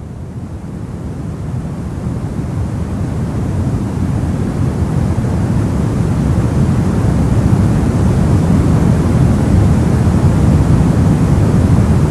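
Steady, even white-noise-style hiss for sleep, deep and heavy in the low end with no distinct events, fading in gradually over the first several seconds and then holding level.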